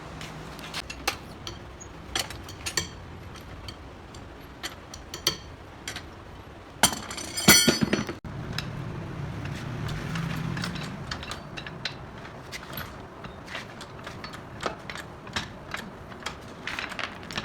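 Metal tools and parts clinking and clicking at irregular intervals, with a louder ringing metallic clatter about seven seconds in.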